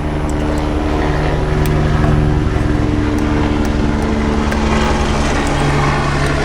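A steady engine-like drone with a low hum, swelling slightly in the first couple of seconds, over a few light metal clicks from needle-nose pliers working a cotter pin loose.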